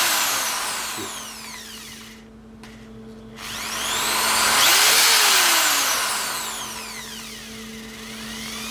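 Cordless drill boring a small hole through sheet steel, running in two long spells: the first fades out about two seconds in, and the second builds from about three and a half seconds to a peak and eases off near the end.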